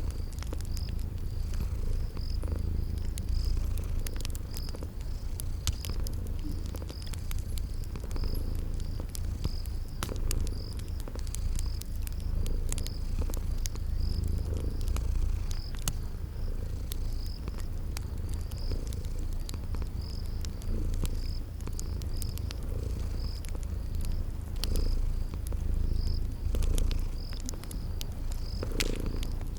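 A cat purring steadily, with a cricket chirping about once a second and a wood fire crackling in light, scattered clicks.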